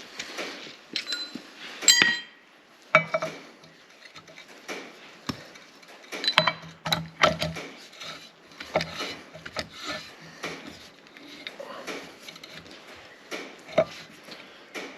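Metal hand tools and steel mower parts clinking, knocking and scraping while a nut is worked on by hand without an impact gun; a few sharper clanks ring briefly, the loudest about two seconds in.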